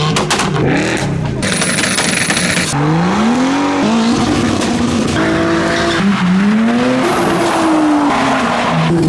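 Modified car engines revving hard and accelerating away, in a run of short clips one after another, each engine's pitch climbing and falling with the revs.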